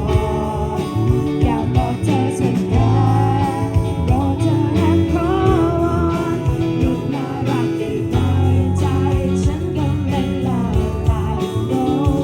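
A live pop band playing: guitar over bass and a steady drum beat, with a melody line wandering above.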